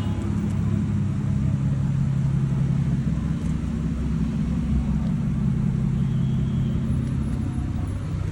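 Aston Martin DBS Volante's twin-turbo V12 running steadily at a constant low engine speed, a deep even exhaust note with no revving.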